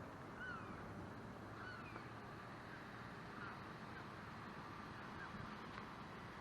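A bird calling repeatedly: short, clear notes that each slide down in pitch, every second or two, over a steady low background rumble.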